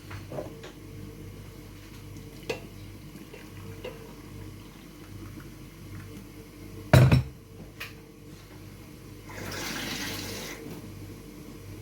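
Water running briefly for about a second, for mixing into flour and cornmeal for dumpling dough, with a single loud thump a couple of seconds before it and a faint steady hum underneath.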